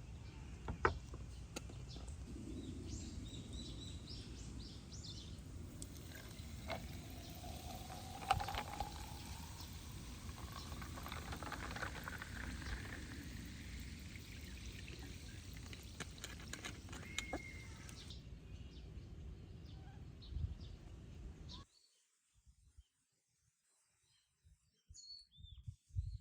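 Liquid poured into a container, its pitch rising steadily as the vessel fills, with a few sharp clicks and faint bird chirps. The sound cuts off suddenly near the end.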